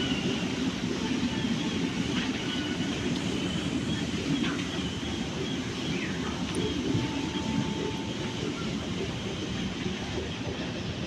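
Park tram running steadily: an even, low vehicle noise from its motor and wheels.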